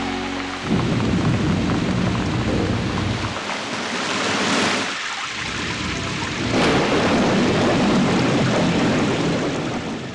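Thunderstorm sound effect: steady heavy rain with rolling thunder that swells a couple of times, fading out at the end. The last notes of a song stop just under a second in.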